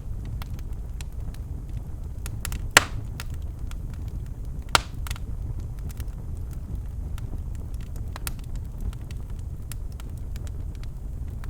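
Birchwood fire burning in a fireplace: a steady low rumble of the flames with scattered crackles and small snaps, and two louder pops, the first a little under three seconds in and the second about two seconds later.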